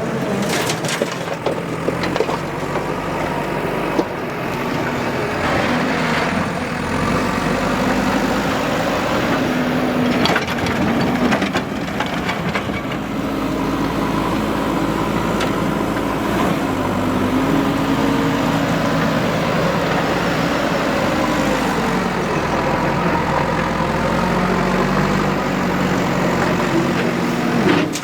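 Diesel engine of a JCB 3DX backhoe loader working, its pitch rising and falling as it takes hydraulic load, with a few scattered knocks and scrapes from the digging and loading.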